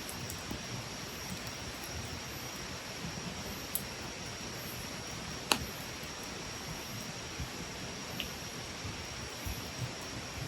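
Wood campfire burning with a steady hiss and sparse crackles, one sharp pop about five and a half seconds in.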